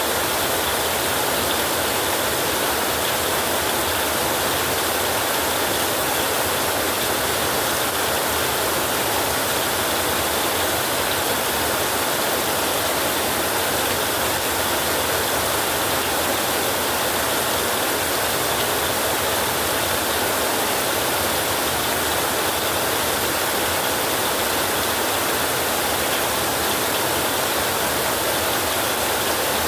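Heavy rain pouring steadily on a roof, an even unbroken hiss with no thunder claps.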